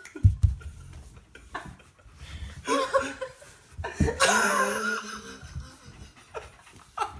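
People laughing in several short bursts, the longest about four seconds in.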